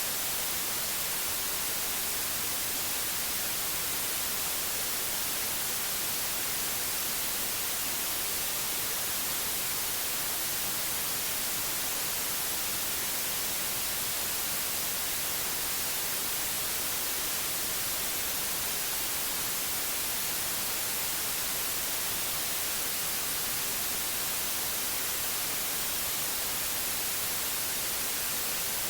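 Steady synthetic white noise: an even hiss, brightest in the treble, unchanging throughout.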